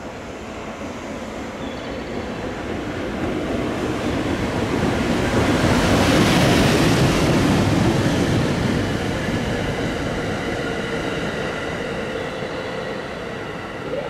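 A locomotive-hauled train of new 521 series electric multiple unit cars passing on the rails. It grows louder to a peak about six to seven seconds in, then slowly fades away.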